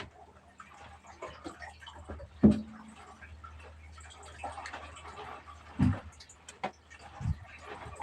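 Small splashes and drips of water around a small fishing boat, with scattered light clicks and a few sharp knocks on the boat, the loudest about two and a half seconds in.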